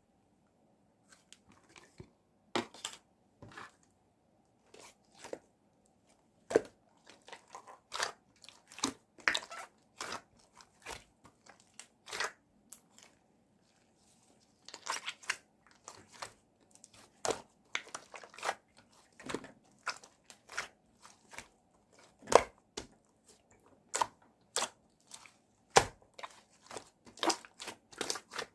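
Tangerine slime being played with by hand, giving irregular sharp crackles and pops in quick clusters, with a short pause about halfway through.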